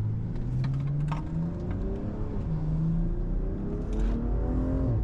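Engine accelerating, its pitch climbing in steps as the gears change, with a sharp fall in pitch near the end.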